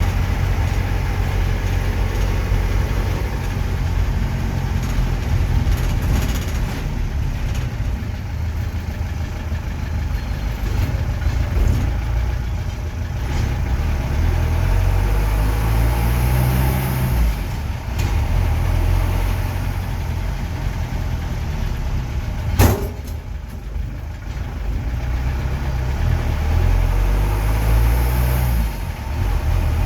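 Engine of a Force Motors 37-seat school bus running with a steady low rumble. Its pitch rises and falls twice, once around the middle and once near the end, as the engine is revved or the bus pulls away. There is one sharp knock about three-quarters of the way through.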